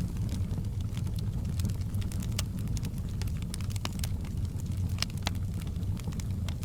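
Fireplace fire crackling, with scattered sharp pops and snaps over a steady low rumble, and rain in the background.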